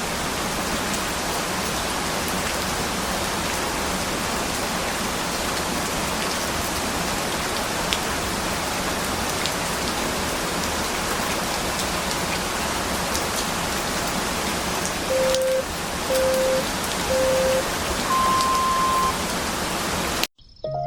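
Steady rain noise. Near the end comes a timer signal: three short beeps about a second apart, then one longer, higher beep, marking the end of a 25-minute Pomodoro focus period.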